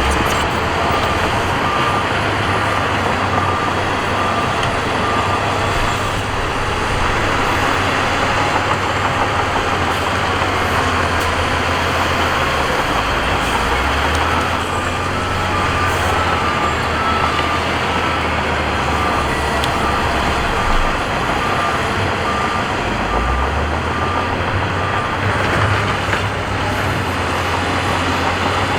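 Heavy diesel earthmoving machinery running with a deep engine rumble that shifts in pitch a couple of times, while a reversing alarm beeps steadily in the first few seconds and again from about halfway until near the end.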